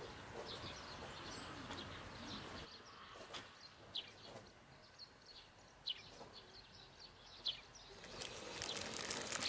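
Birds chirping, with short high calls scattered throughout over a faint outdoor hiss that grows louder near the end.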